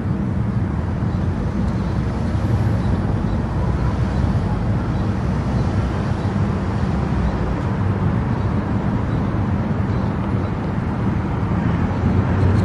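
Steady road noise of a car driving on an expressway: a constant low rumble of tyres and engine with a hiss above it.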